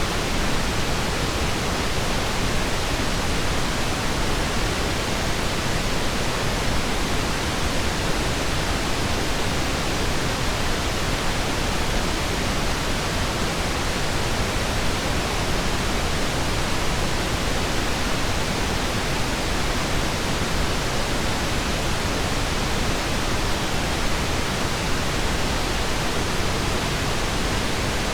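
Steady pink noise: an even, unbroken hiss with no tones or clicks.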